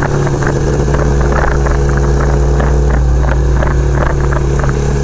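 1975 Kawasaki KZ400S's parallel-twin engine running at a steady speed under way, heard from the rider's seat.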